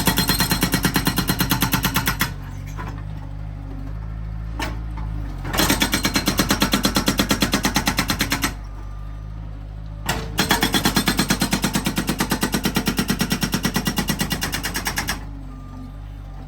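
Felix FX-68 hydraulic breaker on a Bobcat S130 skid steer hammering in three runs of rapid blows, about seven a second, each run lasting a few seconds. The skid steer's engine runs steadily in the pauses between runs.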